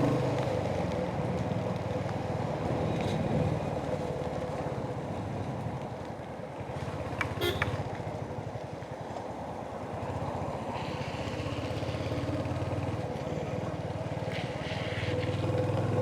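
Royal Enfield Hunter 350's single-cylinder engine running steadily as the motorcycle rides along; it goes quieter for a few seconds around the middle and picks up again after about ten seconds.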